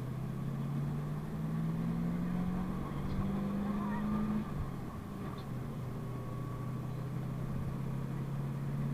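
PAZ-32054 bus engine pulling under load, its pitch climbing steadily for about four seconds, then dropping suddenly at a gear change and running on steadier, slowly rising again.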